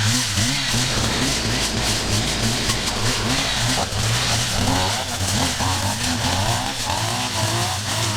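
Small engines of yard-clearing equipment running, their pitch repeatedly rising and falling as they rev up and down.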